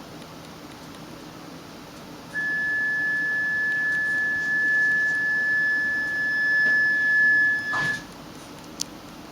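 A single steady high electronic beep tone aboard a train, held for about five seconds over the low hum of the carriage, then cut off by a knock, with a short tick a second later.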